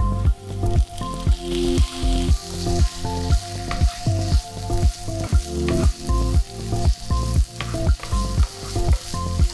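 Onions, tomato pieces and whole garlic heads sizzling in hot oil in a nonstick frying pan as a wooden spatula stirs them. Background music with a steady beat runs throughout and is the loudest sound.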